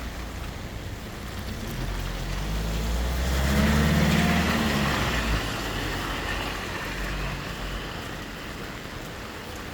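A motor vehicle drives past through heavy rain. It grows louder to a peak about four seconds in, then fades, while the steady hiss of the rain continues.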